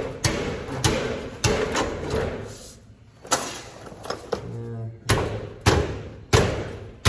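Repeated hammer blows, sharp knocks each with a short ringing tail, spaced about half a second to a second apart with a brief pause partway through.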